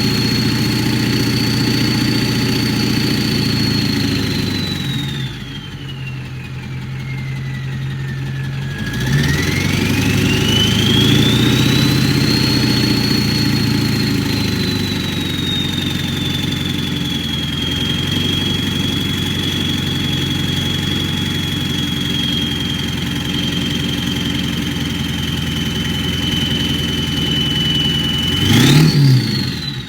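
2002 Ford F-250's 7.3-litre Power Stroke turbo-diesel V8 running with a high turbocharger whistle over the engine note. The whistle falls in pitch as the engine slows about five to nine seconds in, rises again and settles a little lower, then jumps briefly with a short rev near the end.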